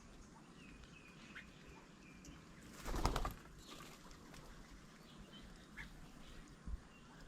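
A bird's wings flapping in a short, loud flurry about three seconds in, over faint scattered bird chirps. A brief low thump near the end.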